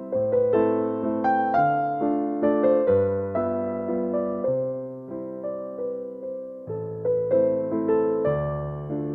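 Gentle piano music: notes struck a few times a second, each fading, over low bass notes that change every second or so.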